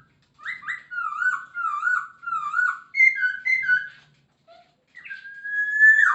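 A Poksay Hongkong laughingthrush singing loud, clear whistled phrases. First comes a run of about five wavering notes, then higher paired notes, and near the end one long drawn-out whistle that slides down at its close.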